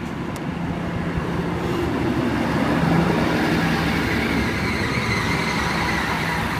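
Endeavour-class diesel railcar arriving at a station platform: a steady diesel engine hum and wheel noise grow louder, peaking about halfway through, and a high-pitched whine joins in during the second half as the train slows.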